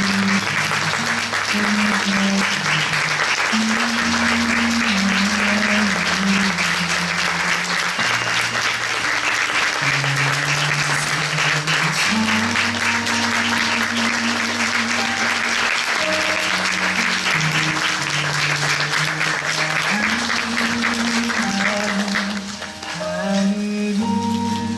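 Theatre audience applauding over music with long held low notes. The applause dies away near the end, leaving the music.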